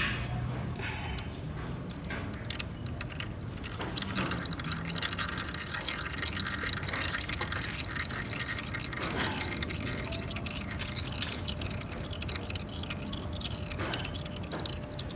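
Used engine oil from a Yamaha Aerox v2 scooter draining out of the open drain-plug hole, trickling and dripping into a catch container.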